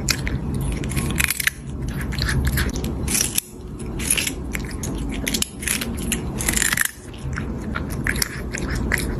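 Loud, irregular crunching, like something hard being chewed and bitten, with many crunches following one another.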